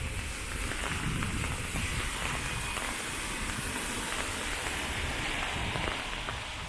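Steady hiss of falling rain with faint scattered drop ticks, swelling slightly through the middle.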